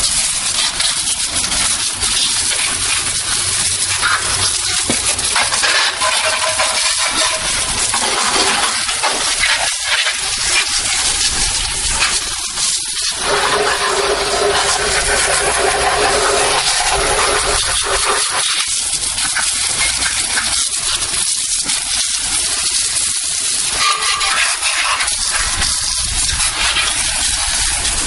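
Garden hose with a jet-spray nozzle blasting water onto an engine compartment, rinsing off degreaser: a steady hiss and spatter whose texture shifts as the jet moves across the parts.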